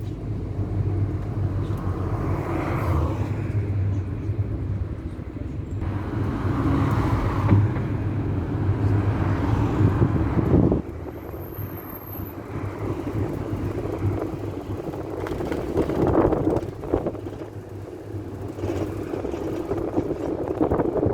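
Old Ford minibus driving, heard from inside the cabin: its engine drones steadily under road rumble, dropping in level about halfway through as the engine eases off.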